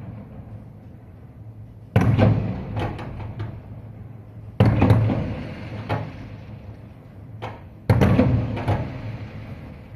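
Fireworks bursting: three loud booms, about two, four and a half and eight seconds in, each dying away in a long rumble, with smaller cracks between them.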